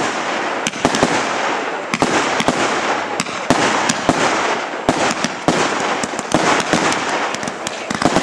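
Aerial fireworks bursting overhead: dense crackling with many sharp bangs in quick succession.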